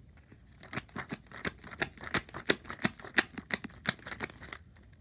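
A quick series of light clicks and taps, about five a second, starting about half a second in and stopping shortly before the end.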